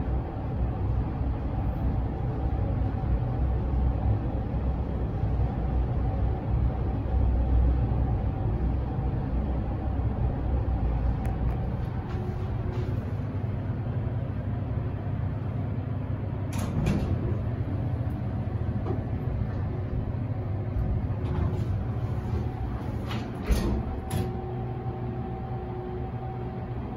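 OTIS high-speed passenger lift car running in its shaft with a steady low rumble and faint hum, which eases off after about twelve seconds. Later come scattered clicks and one sharp knock a little before the end, from the car and its doors.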